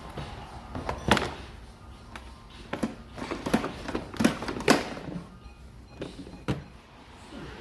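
A series of sharp knocks and clunks, about six spread over several seconds, the loudest about a second in and between four and five seconds in: tools and parts being handled while components are stripped from the engine bay.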